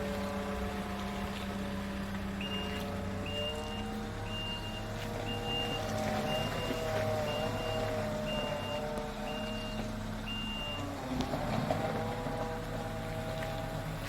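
Truck engine running steadily, its pitch wavering a little midway, while a reversing alarm beeps about once a second, nine times, and then stops.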